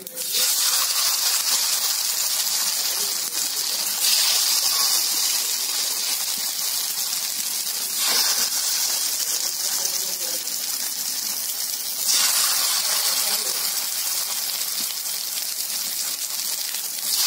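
Rice-batter-coated pumpkin flowers sizzling as they shallow-fry in hot oil in a pan: a steady, hissing sizzle that jumps abruptly louder every few seconds.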